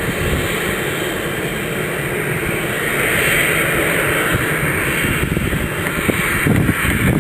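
Cessna 560XL business jet's twin turbofan engines running: a steady rushing jet noise that grows brighter and a little louder about three seconds in.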